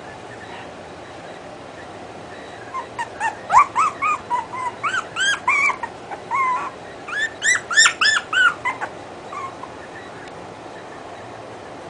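A puppy yipping and whining: quick runs of short, high, arched cries in two bouts, starting about three seconds in and stopping about nine seconds in.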